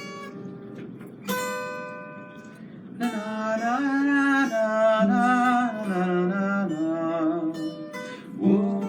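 Acoustic guitar picked slowly, single notes ringing out, then a voice singing a slow wordless lullaby melody over it from about three seconds in.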